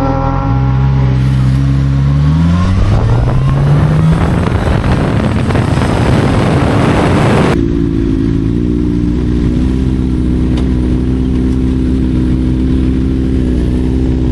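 Sport motorcycle engine revving up, its note rising for a couple of seconds, then a loud rush of wind and engine at speed. About halfway through this cuts off abruptly to a steady engine drone at even revs.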